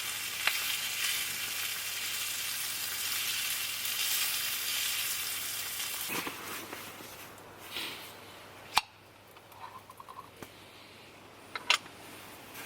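Food sizzling and crackling in a pan, a steady hiss that fades away about six seconds in. A single sharp click comes about nine seconds in, and a couple of light knocks come near the end.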